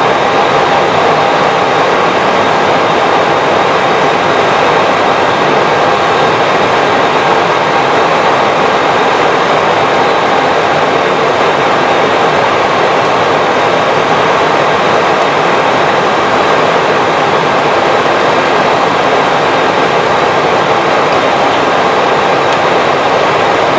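Steady rushing noise on the flight deck of an Airbus A320 in flight: airflow and engine noise with a few faint, even tones on top, unchanging throughout.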